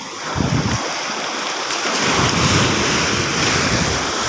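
Sea waves breaking and washing up the shore, with wind buffeting the microphone. The wash grows louder about two seconds in.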